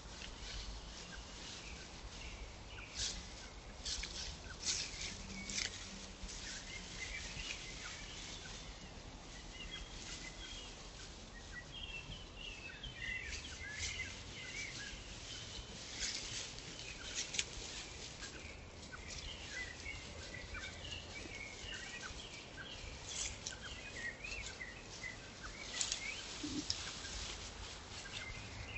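Small birds chirping, many short notes from several birds, thickest in the second half, over a low steady rumble, with scattered sharp clicks.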